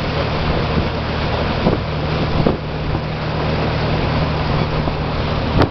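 A boat's engine runs with a steady low hum under a loud rush of wind and water, with wind buffeting the microphone. A sharp click sounds near the end.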